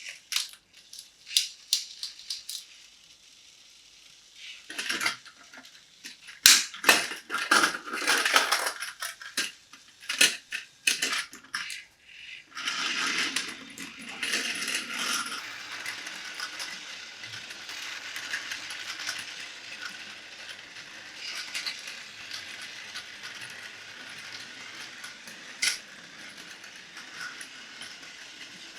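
Hard plastic toy pieces clicking and clattering as they are handled, then from about 12 seconds in a small battery toy motor and its gears whirring steadily.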